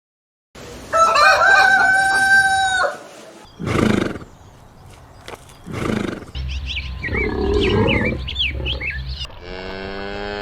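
A rooster crows once, loud and held, then chickens call in short squawks and high quick chirps. Near the end a bleat begins.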